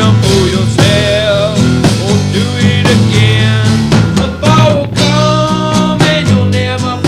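Rock band music with drums, bass and electric guitar playing a steady beat, a sliding melodic line over it.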